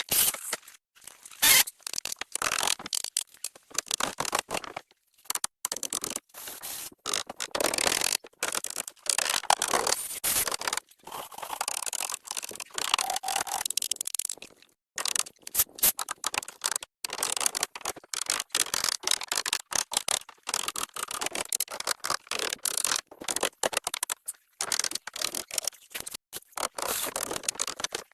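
Irregular scraping and scratching noises in short bursts, with brief silent gaps between them.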